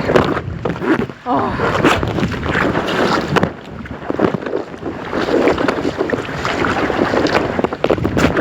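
Strong wind buffeting the microphone over water splashing against a paddled kayak in choppy waves.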